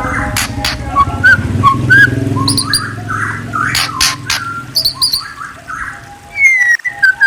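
A songbird singing a varied song of short whistles, chirps and sharp clicks, over a low steady hum that fades about six seconds in.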